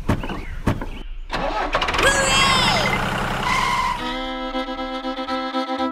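A dubbed tractor-engine sound effect: a steady low engine drone with a few clicks before it, and high gliding squeaks over it. About four seconds in, a held chord of background music comes in.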